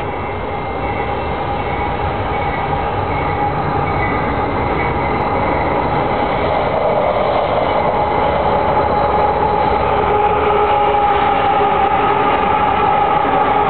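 Canadian Pacific diesel freight locomotives hauling a double-stack container train, approaching and passing close by, growing steadily louder.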